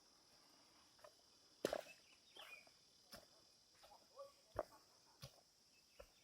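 Footsteps crunching on rainforest leaf litter, short irregular steps, over a steady high-pitched insect drone, with a few brief bird chirps.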